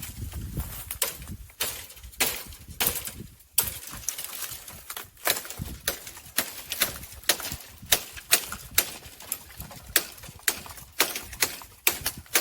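Footsteps on rough outdoor ground, a sharp step about twice a second, over a low rumble in the first few seconds.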